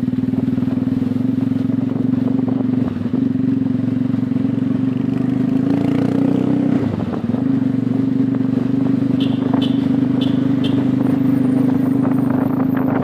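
A steady low motor hum, briefly dipping twice, with four short clicks about nine to eleven seconds in.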